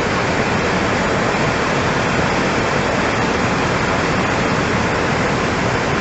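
Floodwater rushing past in a torrent, a loud, steady roar that does not let up.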